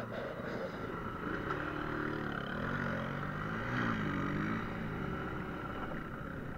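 Small motorbike engine running while riding, its pitch rising and falling several times in the middle as the throttle opens and closes, over a steady rushing noise.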